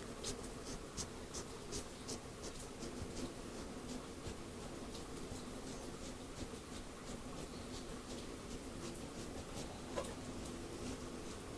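Quick scratchy strokes through hair against the scalp, two or three a second at first and sparser later, over a steady hiss of rain; one sharper click near the end.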